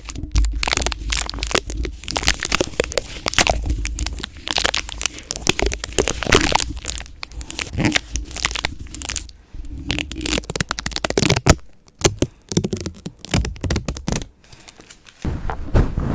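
Close-microphone ASMR crackling and tearing sounds: a dense flurry of rapid crackles with low handling thumps, pausing briefly a few times near the end.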